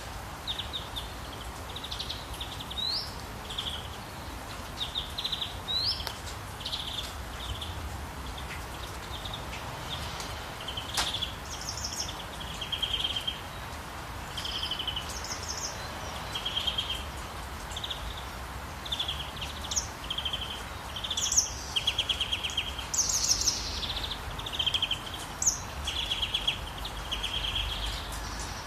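Small songbirds chirping in many short, rapid trills, with a few quick upward-sliding whistles, over a steady background rush of running water. The chirping grows busier and louder in the second half.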